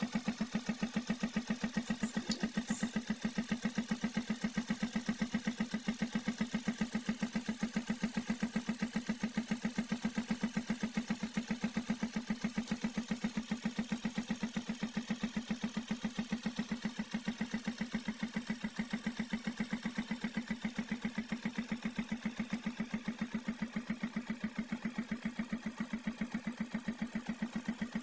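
Vehicle engine running steadily with an even, rhythmic pulse of about four to five beats a second.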